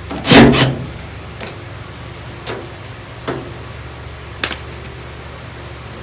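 A loud clattering knock of tools and sheet metal being handled, about half a second in, then three lighter single knocks spread over the next few seconds, over a steady low machine hum.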